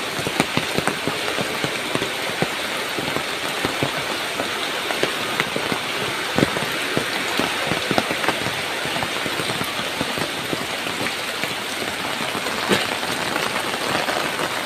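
Heavy rain falling steadily, with many close drops striking irregularly.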